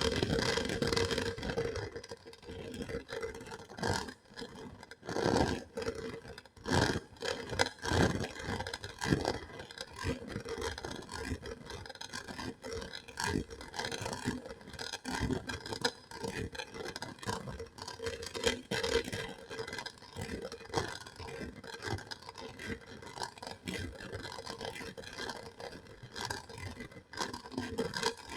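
Close-up ASMR scratching and scraping on some object, a quick, irregular run of short strokes with louder ones every second or two.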